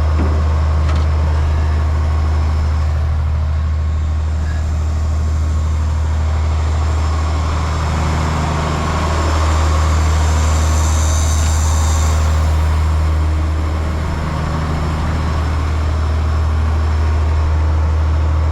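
Diesel engine of a 1995 Ford L8000 truck running steadily with a deep, even hum. It gets a little louder for a few seconds in the middle, when a high hiss also rises and fades.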